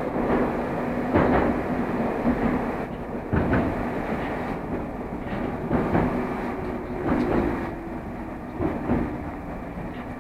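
Moscow Metro 'Moskva' electric train running through the tunnel, heard from inside the car: a steady rumble with a faint motor whine and irregular wheel knocks over the rails. It grows gradually quieter toward the end as the train comes into the station.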